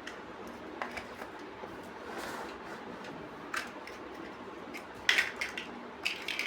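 Plastic building bricks being handled and snapped together: scattered sharp clicks, a brief rustle about two seconds in, and quick runs of clicks about five and six seconds in.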